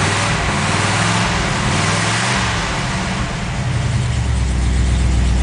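1954 Ford Mainline's 292 V8 running cold with the choke pulled all the way out. Its revs drop over the first few seconds and it settles into a steady idle about four seconds in.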